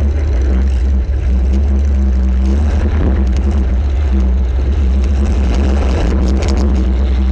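Compact demolition derby car's engine running loud and steady, heard from a camera mounted on the car, with a few short sharp knocks about six seconds in.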